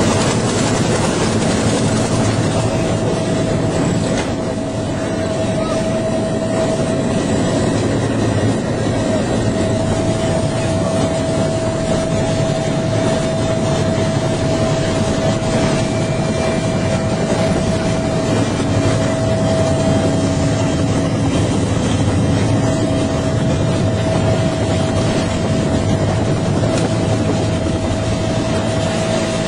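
Bell UH-1H helicopter running steadily: its T53 turboshaft and rotors give a continuous loud noise with a constant whine.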